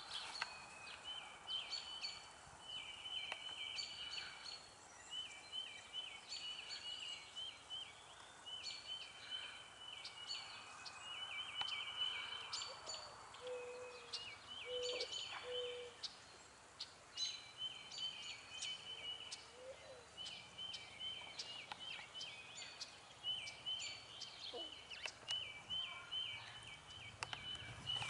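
Small birds chirping over and over in short, rapid trilled phrases, with a faint background hiss.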